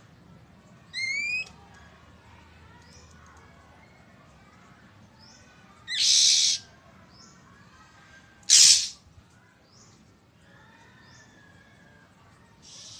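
Oriental magpie-robin calling: a short rising whistled note about a second in, then harsh rasping threat calls, the loudest a little past the middle and a softer one at the end, with faint short chirps between.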